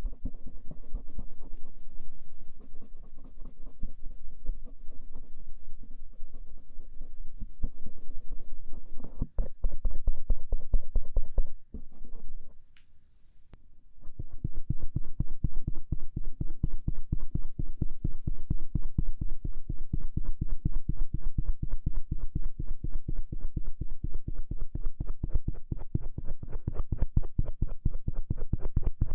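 Bamboo ear pick scratching and rubbing over the outer ear in quick, rhythmic strokes. The strokes break off briefly about twelve seconds in, then a stainless steel ear pick takes over on the other ear with the same fast strokes.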